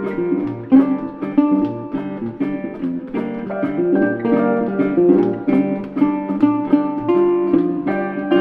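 Background music: acoustic guitar playing a steady run of picked notes.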